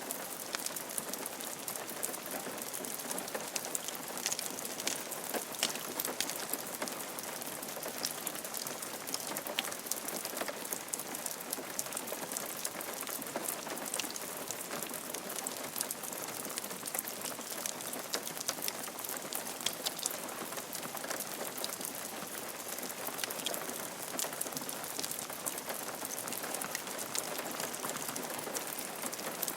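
Steady rain falling on a roof: an even hiss of rain with many small, sharp drop ticks scattered through it.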